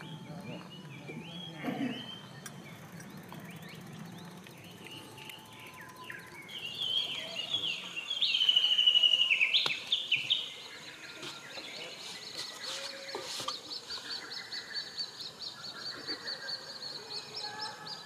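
Several wild birds singing and calling. A loud song with fast trills comes about halfway through, followed by a long run of quick, high, repeated notes.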